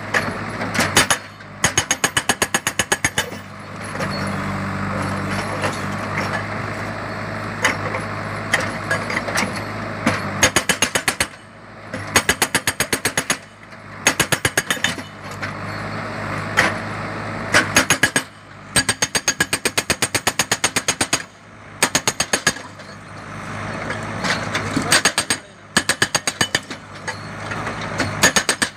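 SMM hydraulic breaker on a JCB backhoe loader hammering in repeated bursts of rapid blows, each a second or two long. The loader's diesel engine runs steadily between the bursts.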